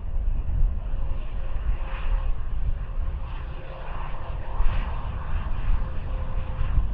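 Bombardier Global 5000 business jet's twin Rolls-Royce BR710 turbofans running during its arrival, a steady jet noise with a deep rumble and a faint whine.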